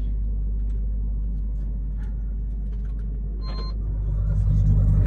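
Steady low drone of a truck's engine and road noise heard from inside the cab. A short electronic beep sounds about three and a half seconds in, and the engine grows louder near the end.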